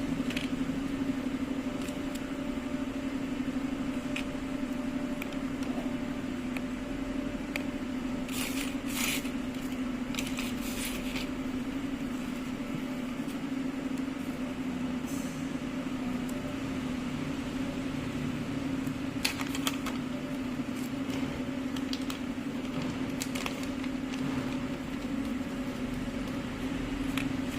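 A steady electric hum with a few sharp clicks and clinks.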